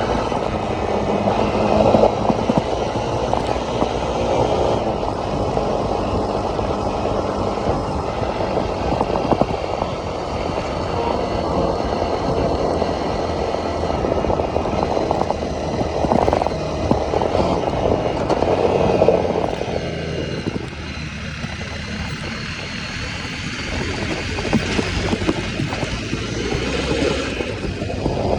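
An ATV engine running under way on a trail, its pitch and load shifting, easing off for a few seconds about two-thirds through before picking up again.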